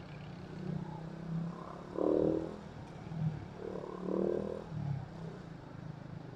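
Suzuki Raider 150 single-cylinder engine running steadily at low speed. Two short pitched humming tones stand out above it, about two seconds apart.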